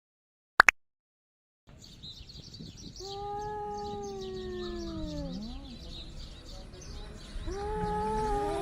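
Cats yowling at each other in a standoff: a long, wavering, drawn-out yowl about three seconds in that drops in pitch at its end, and a second one starting near the end. Birds chirp steadily in the background.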